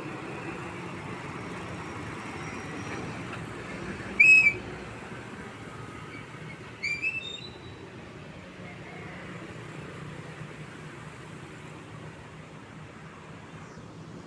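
Steady engine and road noise of passing truck traffic, with two short, shrill, whistle-like blasts about four and seven seconds in; the second wavers upward in pitch.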